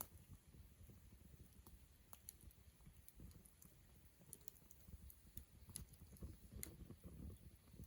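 Wood campfire crackling faintly: sparse, irregular little snaps and pops over a low rumble.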